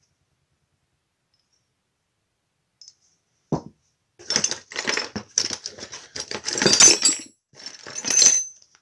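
A single knock, then small metal parts and hardware clinking and rattling against each other as they are handled and set down, with bright ringing metallic tones.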